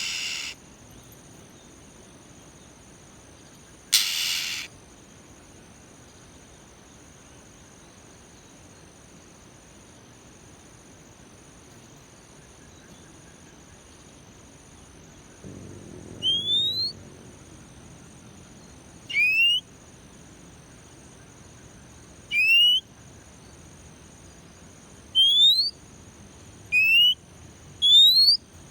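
Oriental magpie-robin (kacer) singing: a short harsh, noisy call about four seconds in, then from about halfway a series of short, clear rising whistles, one every two or three seconds. A steady high-pitched insect-like drone runs underneath.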